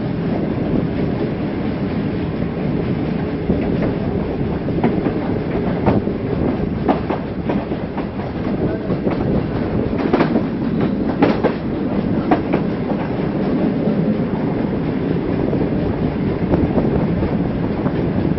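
Passenger coach running along the track, heard from its open doorway: a steady rumble of wheels on rail with clickety-clack over the rail joints. A cluster of sharper clacks comes about ten to twelve seconds in as the wheels cross a set of points.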